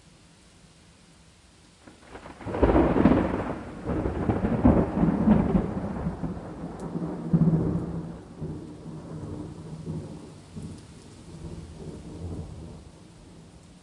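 A thunderclap breaks out about two seconds in and rolls into a long rumble that gradually fades over about ten seconds, over a faint steady patter of rain.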